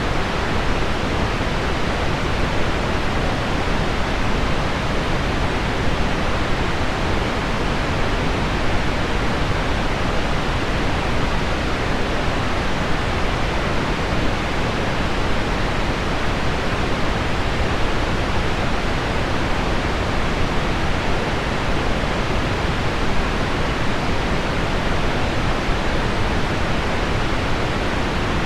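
Steady pink noise blended with heavy rain on window glass: an even, unbroken hiss weighted toward the low end, with no separate drops standing out.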